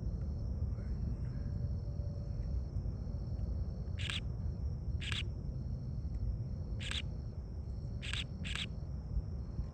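Low steady rumble from the distant Falcon 9's nine Merlin engines, under a steady trill of night insects. From about four seconds in, five short sharp chirps cut through.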